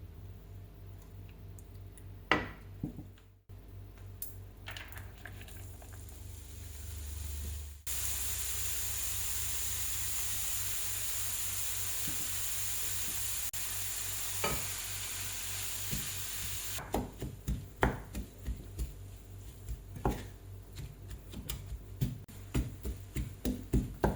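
Minced onion frying in a pan, with a steady sizzle for about nine seconds that stops abruptly. After that, a utensil clicks and scrapes again and again as it stirs in the pan.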